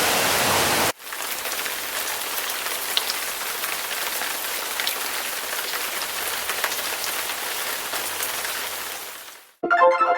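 Hail and rain falling, a steady hiss of patter with scattered sharp ticks of hailstones striking. The hiss changes abruptly about a second in, then fades out near the end.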